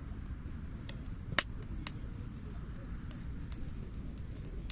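Campfire crackling: scattered sharp pops, the loudest about a second and a half in, over a steady low rumble.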